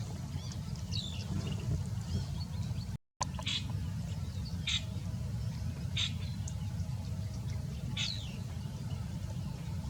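Short, sharp high chirps from a small bird, about five of them spaced a second or two apart, over a steady low rumble. The sound cuts out for an instant about three seconds in.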